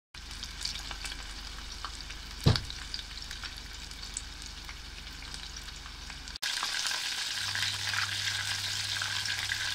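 Chicken lumpia sizzling and crackling as they deep-fry in a pan of hot oil, with one sharp knock about two and a half seconds in. After a brief break a little past halfway the sizzling is louder.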